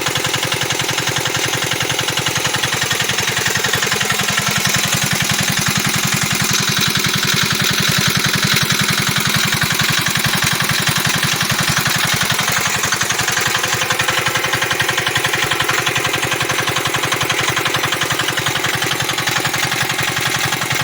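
Usha 170 small single-cylinder diesel engine running steadily with a fast, even firing beat.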